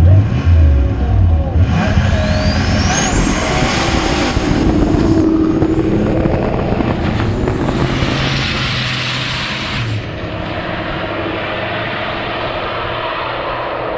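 A drag car launching hard and accelerating down the strip: the engine pitch climbs, breaks off at a gear change about five seconds in, and climbs again. It drops away near ten seconds as the car finishes the pull.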